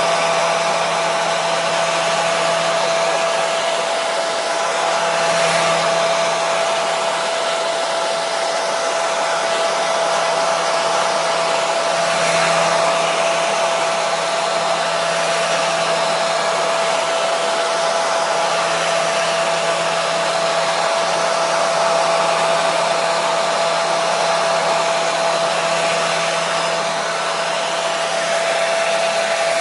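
Hair dryer running continuously: a steady rushing blow with a constant motor hum.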